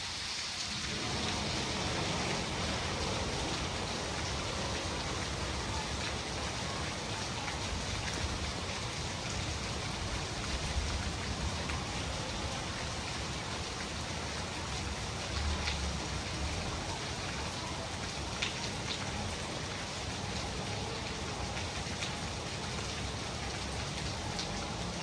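Steady rain falling on hard surfaces, a constant hiss with a few louder drops tapping now and then.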